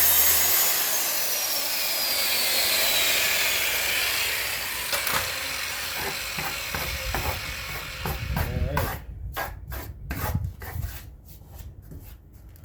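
A power saw cutting wood finishes its cut and its motor winds down with a falling whine. It is followed by a series of scattered knocks and clatters of wood being handled.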